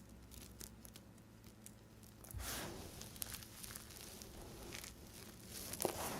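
A knife cutting through a bar of dry soap: faint ticks, then from about two seconds in a rough, crackling scrape with many small crunches, and a sharp snap near the end.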